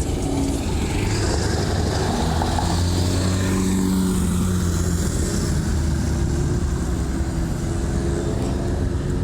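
Car engine running with a deep, low exhaust note. It swells for a few seconds about a second in, then carries on steadily.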